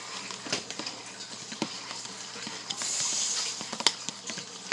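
Eggs being beaten in a bowl by hand: irregular clicks and taps of the utensil against the bowl, with a brief hiss a little past the middle.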